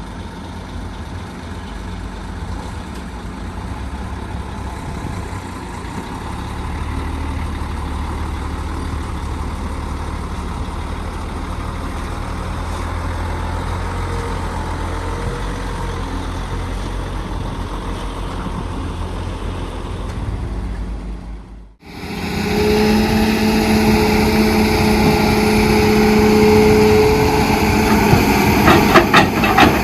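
Heavy diesel construction machinery running steadily at low revs. About two-thirds of the way through it cuts abruptly to a louder stretch of machine running with a steady whine, with a few sharp knocks near the end.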